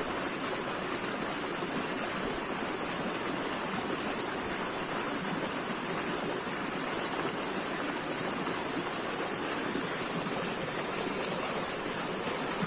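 Running water, a steady, unchanging rush like a stream or small waterfall, with a bright hiss in the highs.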